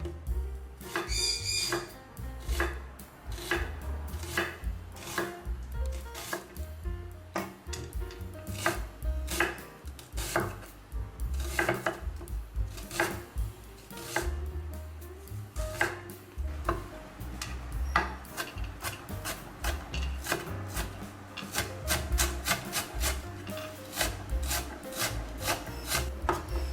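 Kitchen knife chopping on a cutting board in a steady run of sharp strokes, which speed up into rapid chopping near the end.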